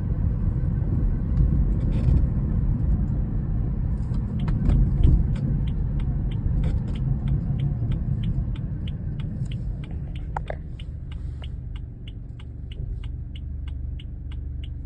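Steady low rumble from a BMW 4 Series. About four seconds in, a regular ticking starts at two to three ticks a second, and a short squeak comes about ten seconds in.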